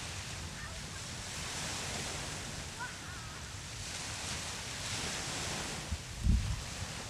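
Ocean surf washing in and out in slow swells, with wind rumbling on the microphone. A sudden low thump near the end is the loudest moment.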